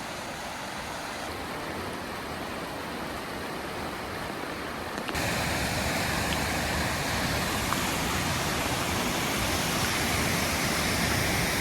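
Steady rushing of the beck and Hardraw Force waterfall, an even hiss that jumps louder about five seconds in.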